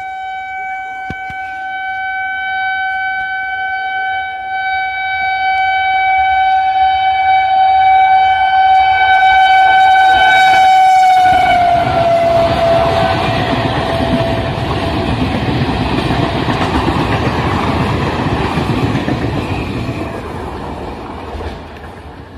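Electric multiple unit (EMU) local train sounding one long horn as it approaches at speed, the horn's pitch dropping as it passes about eleven seconds in. Then the steady rush of the carriages running through the station without stopping, fading near the end.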